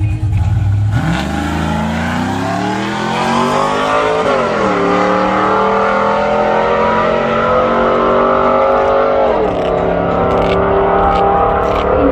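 A vehicle engine accelerating hard through the gears. Its pitch climbs, drops sharply at an upshift about four seconds in, climbs again, and drops at a second upshift near the end.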